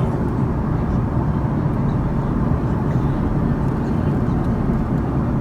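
Steady roar of engine and airflow noise inside the cabin of an Airbus A310-304 airliner during its descent.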